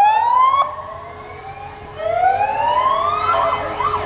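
A vehicle siren sounding in rising sweeps. One rise ends about half a second in and trails off. A second, slower rise starts about two seconds in and climbs until near the end.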